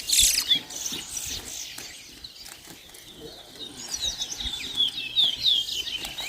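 Towa-towa seed finches singing: quick runs of high, warbled and whistled song notes. The song is dense in the first second, thins out through the middle, and picks up again from about four seconds in.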